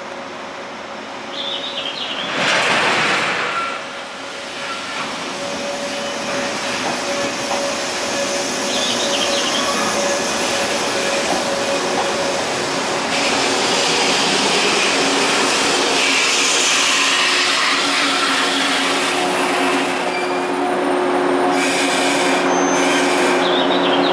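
An electric passenger train pulling out of a station platform. A loud hiss lasting about a second comes early, then the train runs steadily louder as it gathers speed, with its motors humming in steady tones and the wheels squealing now and then on the rails.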